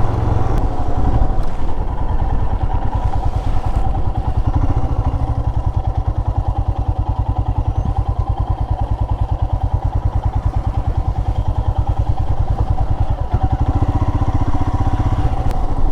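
Royal Enfield Himalayan's single-cylinder engine running steadily while the motorcycle is ridden at cruising speed, its firing pulses coming through as an even, rapid beat.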